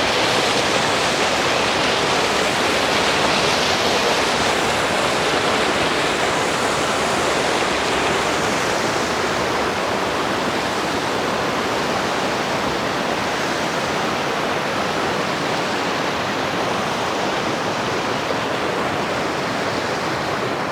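Fast-moving mountain creek rushing steadily, an even hiss of water that grows slightly fainter toward the end.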